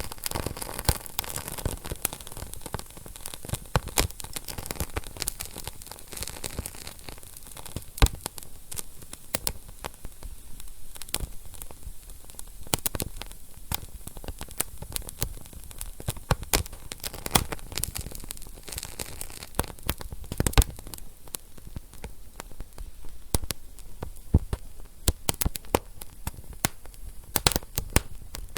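Wood fire burning in a fireplace: a steady soft hiss with irregular crackles and snapping pops, a few pops much louder than the rest, notably about 8 and 20 seconds in.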